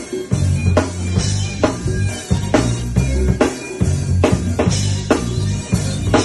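Drum kit and bass playing a groove together. A sharp drum hit lands about once a second over a moving bass line, with cymbals above.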